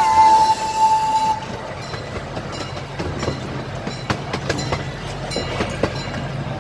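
Miniature park train's horn holding a long steady blast that cuts off about a second and a half in. Then the train runs on with a low hum and scattered clicks of the wheels over the rail joints.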